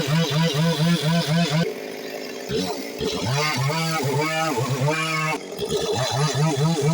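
Stihl two-stroke chainsaw running at high revs, its pitch dipping and recovering several times a second as it works. It eases off briefly twice, then comes back up to speed.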